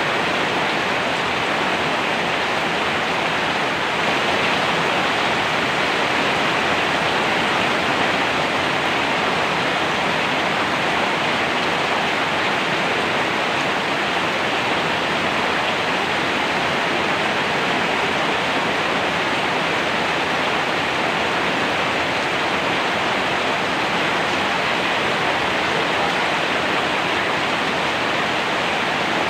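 Rain falling steadily in an even, unbroken hiss.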